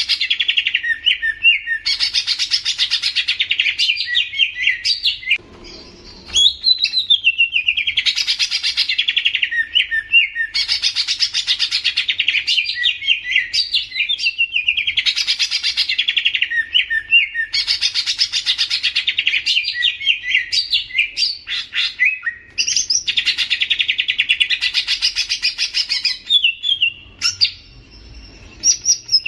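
Cucak ijo (green leafbird) singing: a fast, varied, chattering warble given in repeated phrases of two to three seconds, with short breaks between them.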